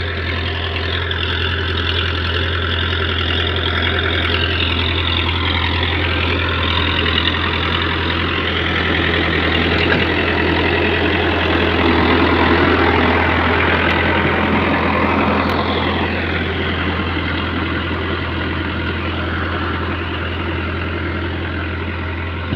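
Digitrac tractor's diesel engine running steadily, swelling a little in the middle and easing off toward the end.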